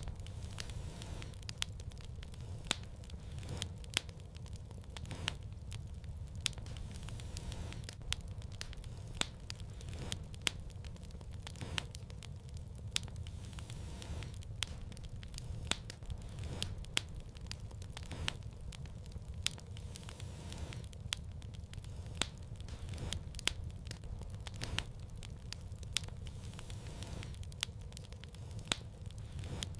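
Fire crackling in a fireplace, with frequent irregular sharp pops and snaps over a steady low rumble.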